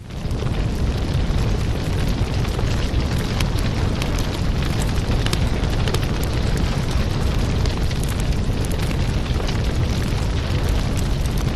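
Wood fire burning: a steady low rush of flames with frequent sharp crackles and pops of the firewood. The sound fades in quickly at the very start.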